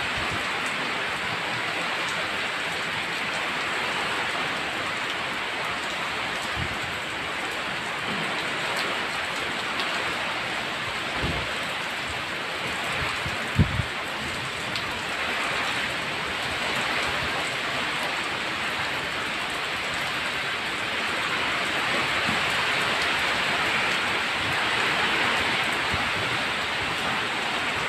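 Heavy rain pouring steadily, growing a little louder toward the end. A couple of brief low thumps sound near the middle.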